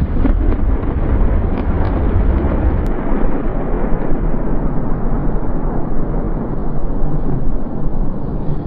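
Thunder rolling after a lightning strike: a heavy low rumble, strongest for the first three seconds and then easing, over a steady rushing noise.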